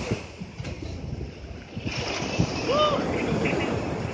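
Sea waves washing on a beach, with wind buffeting the microphone. A short arched call is heard about three seconds in.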